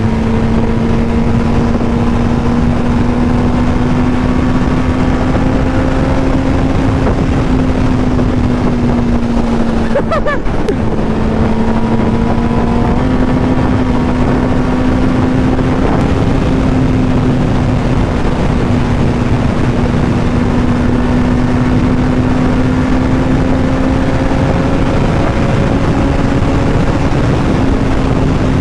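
Yamaha R1 sportbike's inline-four engine running at a steady cruise, its note drifting slowly up and down with a brief dip and pick-up about ten seconds in. Heavy wind rushing over the microphone throughout.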